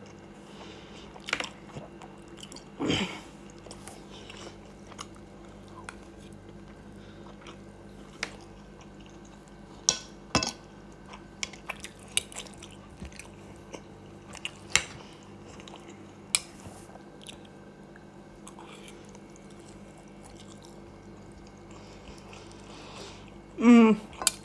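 A person eating close to the microphone: chewing and biting, with scattered short clicks and knocks across the stretch. A short voiced sound comes just before the end.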